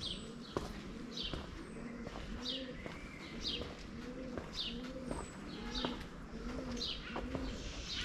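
Birds calling: a high chirp that falls in pitch, repeated about once a second, over low cooing notes in a steady rhythm.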